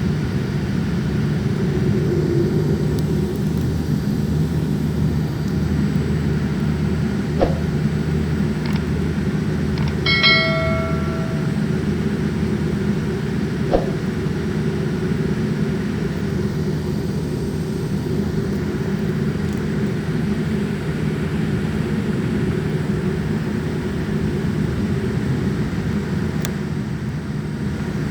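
Steady low rumble of an airliner's engines and airflow heard inside the passenger cabin. About ten seconds in there is a single cabin chime, and two short clicks come either side of it.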